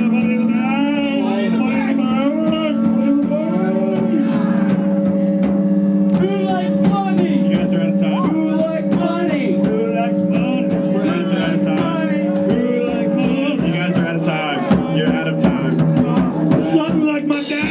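Live experimental rock band playing: sustained droning chords under wavering, bending lead lines, with drum hits throughout. A bright, noisy wash comes in just before the end.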